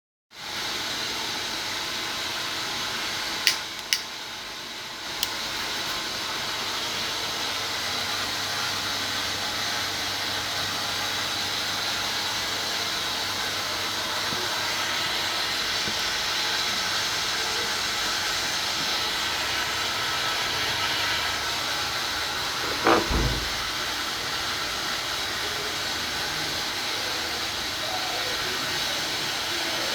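Saunier Duval gas boiler running with a steady hiss, with a few sharp clicks about three and a half to five seconds in and a single thump a little after twenty seconds.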